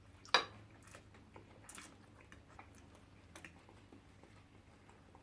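Eating sounds: quiet chewing with scattered sharp clicks and taps, the loudest about a third of a second in.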